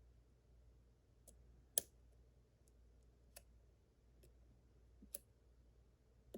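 Faint, scattered clicks of a lock pick working the pins of a Yale Superior KM1 pin-tumbler lock under tension, about seven in all at uneven spacing, the loudest about two seconds in.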